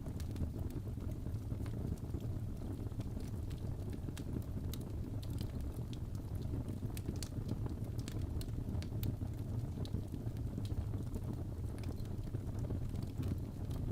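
Crackling fireplace: a steady low rumble of burning with irregular sharp pops and crackles scattered throughout.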